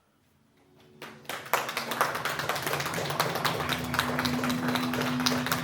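Audience applause, starting about a second in after a brief hush and holding steady, with music beginning to sound underneath in the second half.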